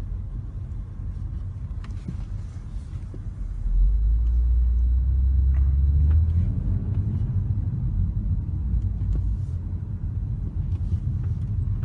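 Car driving, with a steady low rumble of engine and road noise that grows louder for about two seconds around four seconds in, and a few faint clicks.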